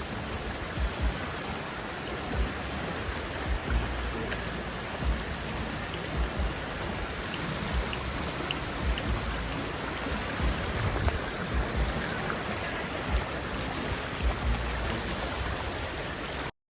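A steady, even hiss like rain, with irregular low thumps from wind buffeting the microphone; it cuts off suddenly near the end.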